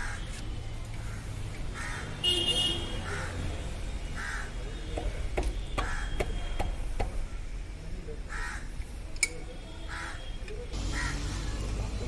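A bird calling repeatedly, one short call every second or two, with a few sharp metal clicks and taps in the middle from hand work on the rear wheel hub.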